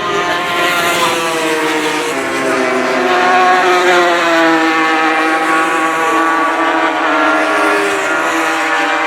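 Yamaha TZR250 two-stroke racing motorcycles at high revs, several engines overlapping, their pitch sliding down as they pass.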